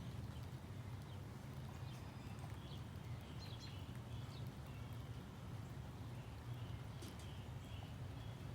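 Faint, scattered bird chirps and a few light clicks over a steady low rumble.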